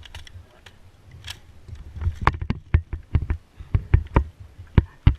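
A run of about a dozen sharp, irregularly spaced knocks and clicks, starting about two seconds in, over a low steady rumble.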